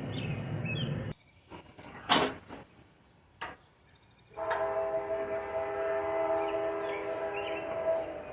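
A sharp click about two seconds in, then a horn sounding one steady, many-toned chord that starts abruptly about halfway through and holds for about four seconds.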